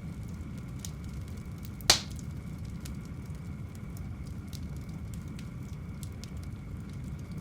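Wood fire crackling in a fireplace over a steady low rumble, with scattered small crackles and one loud sharp pop about two seconds in.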